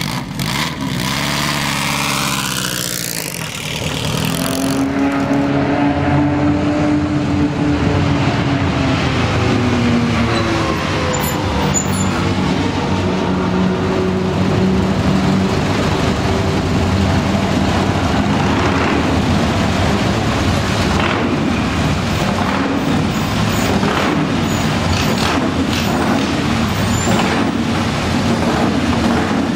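Engines of several vintage three-wheeler cyclecars running together, their revs rising and falling unevenly as they idle and are blipped.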